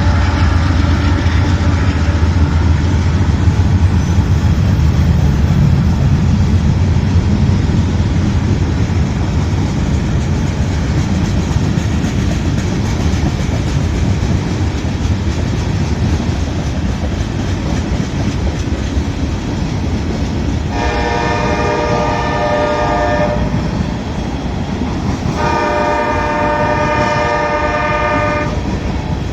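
Train passing with steady wheel-and-rail rolling noise, the low hum of the locomotives' engines strongest at first. Near the end a locomotive horn sounds two long chords, the second longer, and a third begins.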